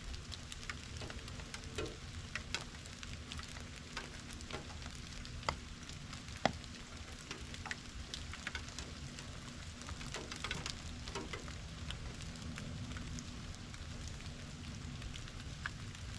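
Steady autumn rain falling, with many individual drops pattering and a couple of louder single drop hits about five and six and a half seconds in.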